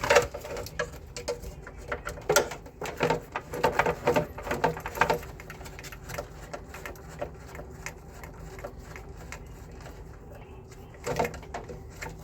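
Irregular light clicks and taps of hard objects being handled, closely bunched in the first five seconds, sparse in the middle and clustering again near the end.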